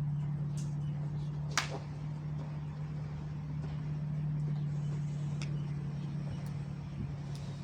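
Vehicle running steadily with a constant low hum, a sharp click about a second and a half in and a few fainter ticks.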